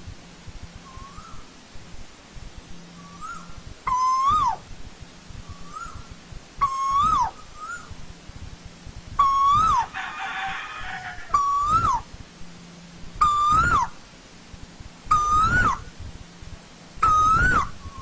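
Asian koel calling: a loud whistled note that rises and then drops, repeated about every two seconds, seven times from about four seconds in. Fainter answering notes come between them, and there is a brief hiss around the middle.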